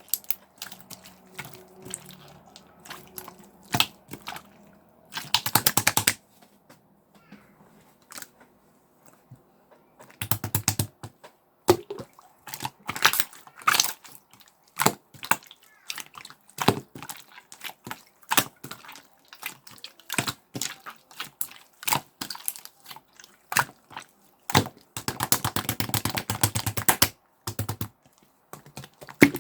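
Clear slime being pressed and stretched by hand, giving off sharp, wet clicking pops, with a few longer runs of rapid crackling pops as air pockets burst.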